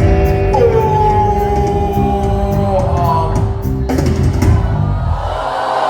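Live band music with a singer's long held call over the band, sung as a line for the crowd to repeat.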